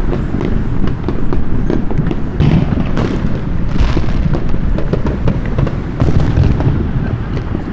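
Dense, continuous fireworks and firecrackers going off all around: a rapid scatter of sharp pops and cracks over a heavy rumble of booms.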